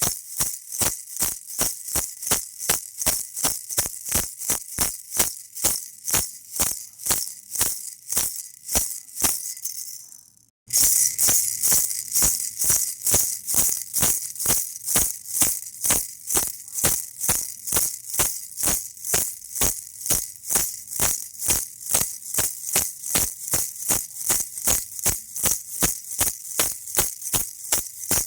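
Baby rattle shaken in a steady rhythm, about three shakes a second. It fades out about ten seconds in, stops for half a second, then starts again at full loudness.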